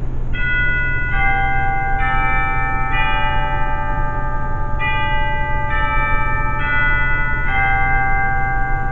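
Bells playing a slow melody, a new note struck about every second and left ringing into the next, over a loud, steady low hum.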